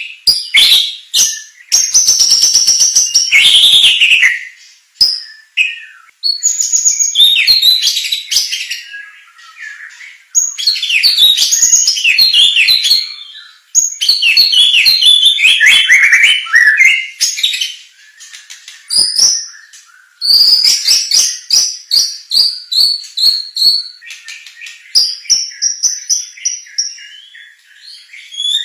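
White-rumped shama (murai batu) singing loud, rapid, varied song phrases of whistles and chattering notes, in several long bursts a few seconds each with short pauses between.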